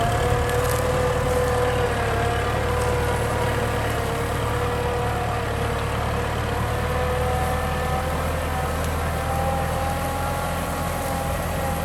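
Kubota M6040 SU tractor's diesel engine running steadily, with a continuous whine over the low engine note that drifts slightly up and down in pitch.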